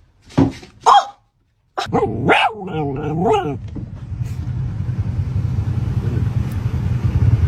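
A dog barks twice in quick succession, then gives a longer pitched call that bends up and down. From about halfway through, a steady low rumbling noise takes over.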